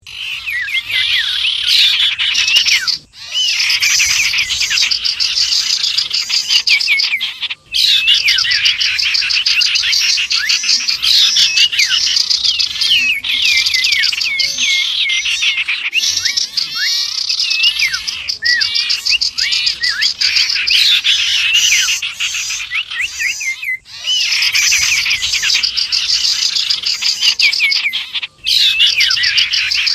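Dense, continuous chorus of many small birds chirping and trilling over one another: a mixed bird-lure recording built around common iora (cipow) calls. The sound drops out briefly four times, about 3, 8, 24 and 28 seconds in.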